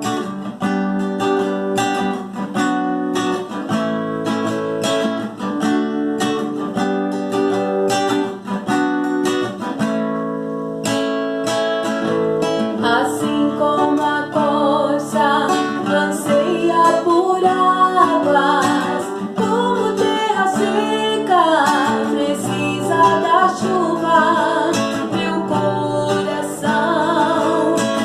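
Acoustic guitar strummed in a steady rhythm as the intro to a Christian praise song; about halfway through, a voice comes in singing over the guitar.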